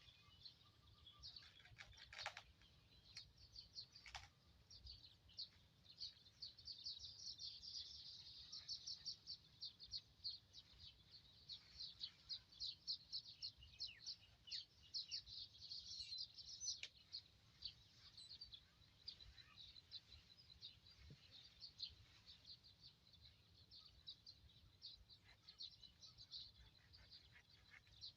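Faint birds chirping: a busy, continuous run of short high chirps, with two sharp clicks about two and four seconds in.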